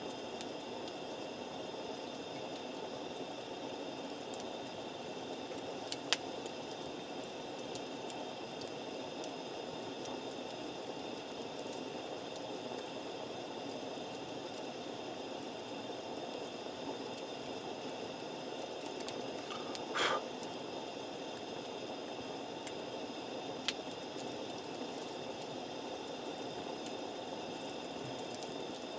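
Wood campfire with a few sharp pops, about six, twenty and twenty-four seconds in, over a steady low rushing noise.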